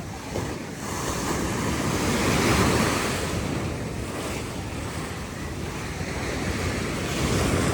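Ocean surf washing in, a steady rushing that swells about two to three seconds in and again near the end, with wind buffeting the microphone.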